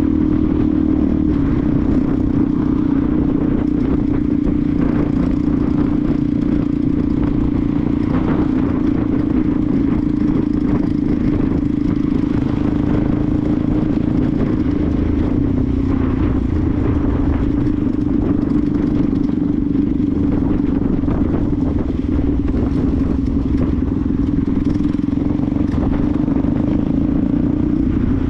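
Benelli TNT 125's single-cylinder four-stroke engine running under way at a fairly steady speed, its pitch sagging a little midway and picking up again near the end.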